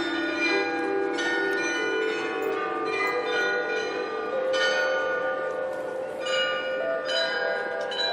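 The Glockenspiel bells in the tower of Munich's New Town Hall playing a tune: tuned bells struck one after another, each note ringing on and overlapping the next.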